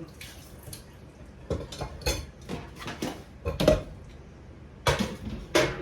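Dishes and cutlery being handled, clattering and clinking against each other and a hard surface in a series of separate knocks, about seven in all, the loudest near the middle and toward the end.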